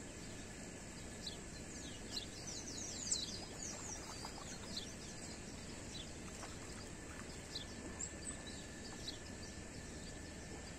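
Small birds chirping, with a quick run of rising and falling chirps about two to three seconds in and scattered calls after, over a steady outdoor hiss.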